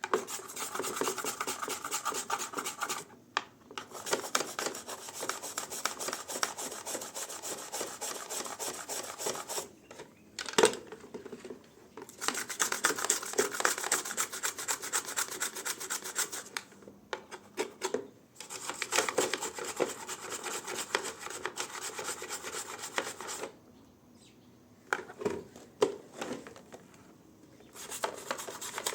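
Hand scrubbing with fast back-and-forth strokes, in several long bouts broken by short pauses, with the longest pause near the end. A single sharp knock falls about ten seconds in.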